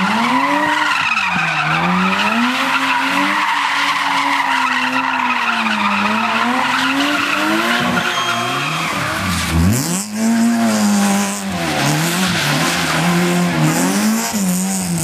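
Car engine revving hard, its pitch rising and falling again and again as it is driven through tight turns, with a sharp drop and climb about ten seconds in; tyres squeal and skid throughout.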